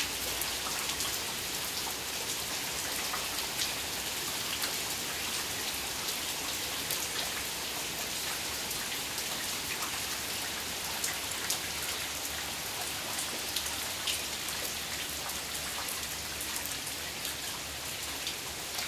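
Heavy rain pouring steadily: an even hiss dotted with many sharp ticks of drops striking nearby.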